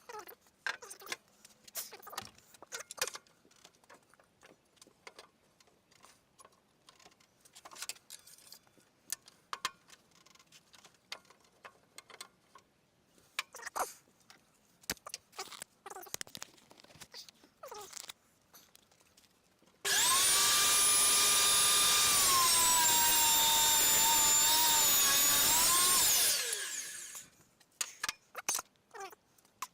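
Scattered light knocks and clicks of wood being handled, then a handheld power tool runs loud and steady for about six seconds, its whine dipping slightly in pitch as it takes load, before winding down.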